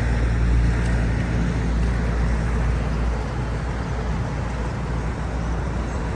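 A motor running steadily: a low, even drone with a rushing noise over it.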